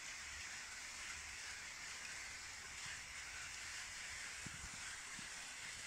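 Light rain falling on a wet glass tabletop: a steady hiss of drops, with a few soft taps from nearer drops in the second half.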